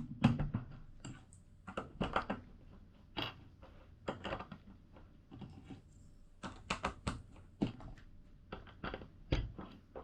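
Plastic LEGO bricks being handled and pressed onto a build: irregular sharp clicks and clacks, some in quick clusters.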